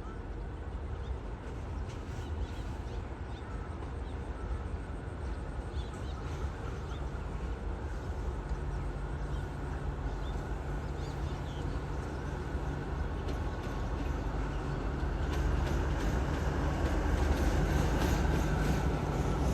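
A train approaching and getting steadily louder: a low rumble and engine drone, with short clicks of wheels over rail joints in the last few seconds.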